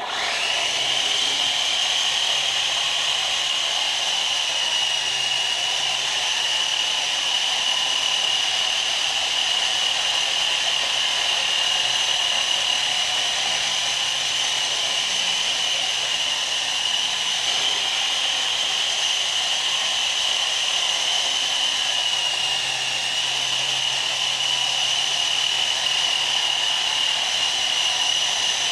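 Small DC motor of a homemade toy helicopter spinning its rotor at full speed: a steady high whine that switches on suddenly at the start and holds with only a slight dip about three-quarters of the way through.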